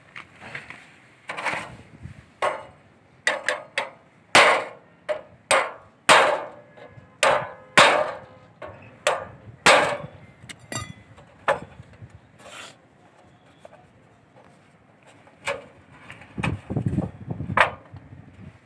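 Hammer blows on wood, a run of sharp irregular knocks about one to two a second, thinning out after about ten seconds, with a few more and some low rubbing or shifting near the end.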